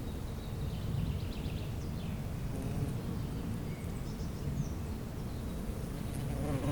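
Outdoor spring ambience: a steady low background rumble with a few faint bird chirps, and a bee's buzz coming in near the end.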